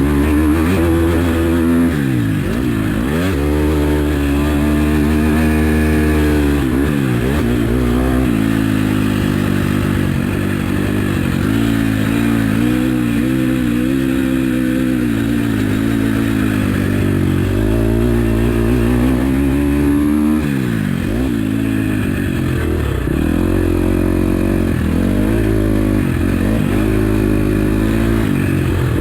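2021 KTM SX-F 250 motocross bike's four-stroke single-cylinder engine revving hard as the rider works the throttle through a lap. The pitch climbs and drops repeatedly, with sharp drops as the throttle is closed about 2, 7 and 20 seconds in.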